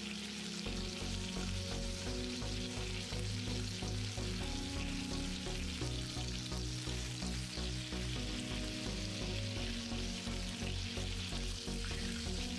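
Egg-and-flour-coated chicken drumsticks sizzling steadily as they fry in plenty of hot vegetable oil in a frying pan. Quiet background music comes in under the sizzle about a second in.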